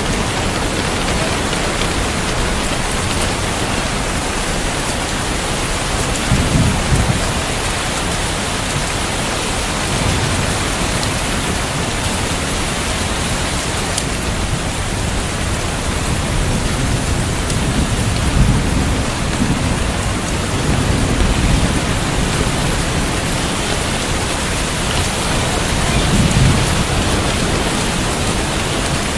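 Steady rain falling, with several low rumbles of thunder swelling up and fading.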